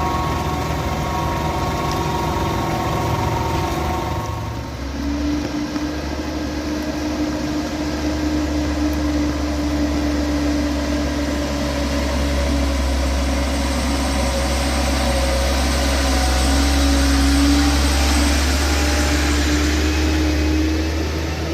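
A heavy diesel engine running steadily; about four and a half seconds in its note changes and it then grows slowly louder.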